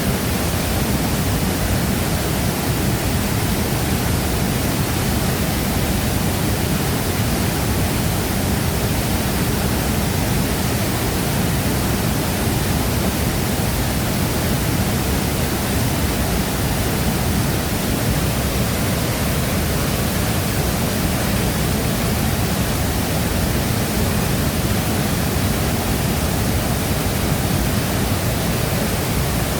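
Shifen Waterfall falling into its pool: a steady, unbroken rush of water, heaviest in the low rumble.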